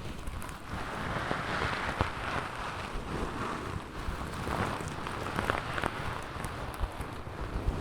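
Fingers rubbing and brushing a furry microphone windscreen right on the mic: a steady rustling hiss with low rumble and small scratchy clicks.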